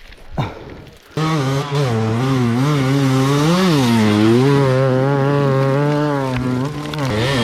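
Dirt bike engine running hard, its pitch wavering up and down with the revs. It comes in suddenly about a second in, after a quieter start.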